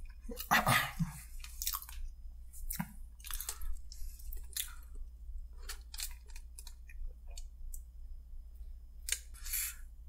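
Close-miked chewing and crunching of crispy fried food, with irregular clicks and crunches throughout, loudest at about half a second to a second in.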